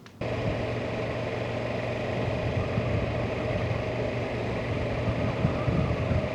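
Triumph motorcycle engine running steadily under an even rush of wind and road noise. The sound starts abruptly just after the beginning.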